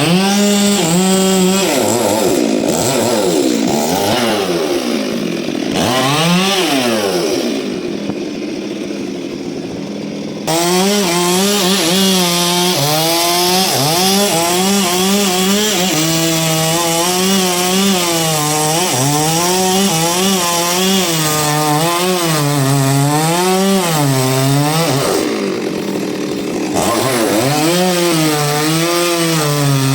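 A chainsaw cutting through a large log, its engine pitch wavering up and down as it bogs and recovers under load. About a third of the way through it eases off to a lower, quieter run for a few seconds, then revs sharply back into the cut, with another short easing near the end.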